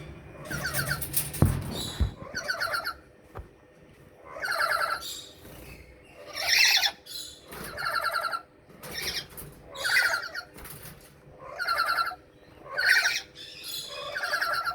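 Lory parrots calling: a run of about ten harsh, buzzy screeches spaced roughly a second apart. A couple of dull knocks come about two seconds in.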